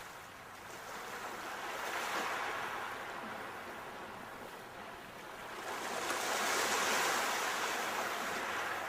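Sea waves breaking and washing up the shore in slow surges: one swell about two seconds in, then a larger wave building to its loudest near the end.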